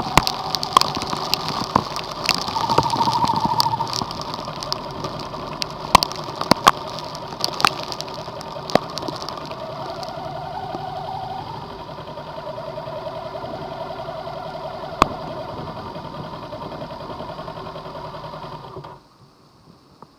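Running noise of a vehicle in a heavy rainstorm, with many sharp taps of rain striking the vehicle. It cuts off suddenly near the end.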